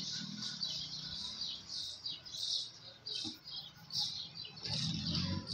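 Small birds chirping in short, repeated high bursts, with a low rumble rising near the end.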